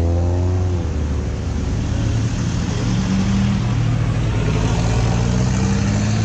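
Motor vehicle engine noise: one engine revs up and fades out in the first second, then a steady low engine hum continues over road noise.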